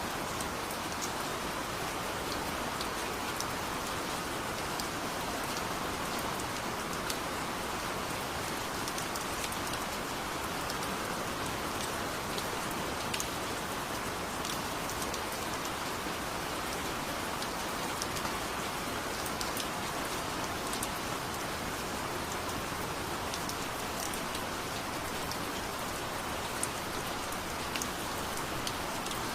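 Heavy rain falling steadily, an even rushing hiss with scattered sharp drop ticks.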